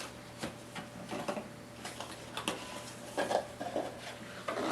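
Cardboard packaging being opened and handled: scattered light clicks, taps and rustles, busier about three seconds in.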